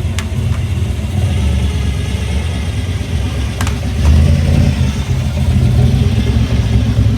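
Car engine running with a deep, low sound, growing louder about four seconds in.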